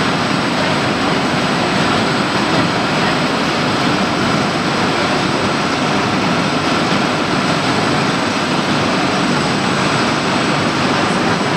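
Steady, loud running noise of waste-tyre pyrolysis plant machinery, with a faint high whine held throughout.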